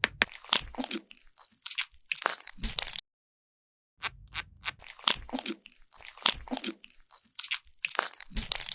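Close-up crisp crunching and crackling, with a few sharp taps. It cuts to dead silence for about a second some three seconds in, then three quick taps and more crunching follow.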